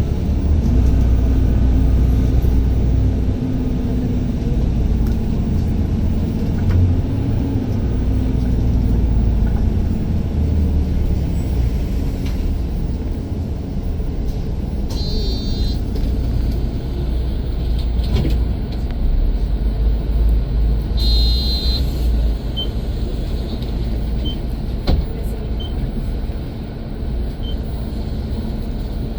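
Road traffic: vehicle engines rumbling steadily, with an engine's pitch rising and falling in the first several seconds. Two short high electronic beeps come about halfway through, and faint evenly spaced pips sound about every second and a half near the end.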